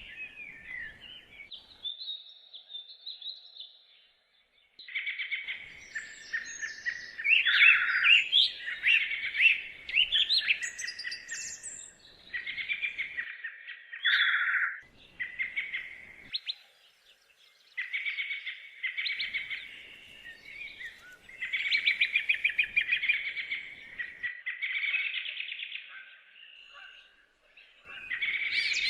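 Songbirds singing in repeated phrases of a second or two, many of them rapid trills, with short pauses between phrases.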